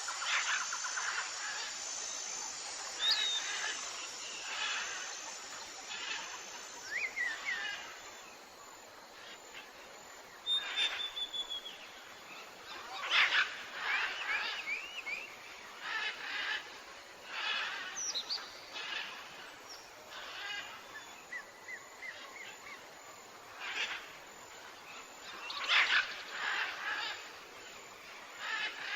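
Wild birds calling in a jungle soundscape: short whistled notes, quick pitch glides and bursts of rapid chattering every second or two, over a soft steady hiss.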